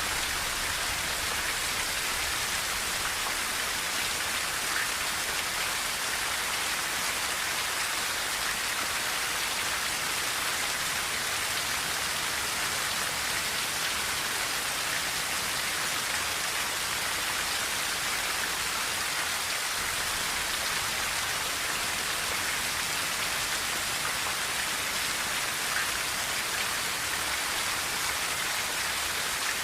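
Steady rain on a tin roof: a dense, even patter of many drops that holds level throughout, with no thunder.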